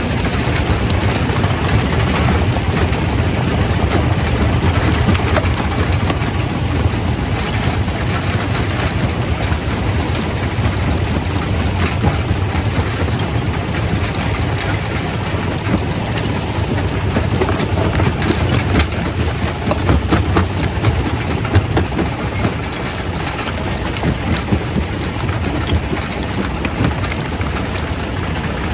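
Quarry primary rock crusher running: a steady low machinery rumble with rock knocking and clattering through it, a few louder knocks about two-thirds of the way through.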